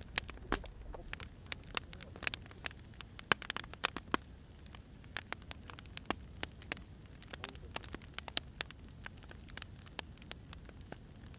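Firewood burning and crackling, with sharp pops at irregular intervals over a steady low rumble of flame.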